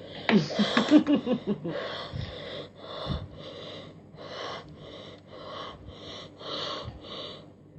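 A person whimpering with a wavering voice, then panting hard through the mouth in quick, even breaths about one and a half a second, from the burn of hot chillies in the mouth.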